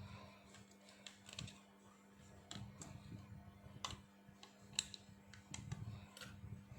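Scattered light clicks and taps from handling a mobile phone and small repair tools, over a steady low hum.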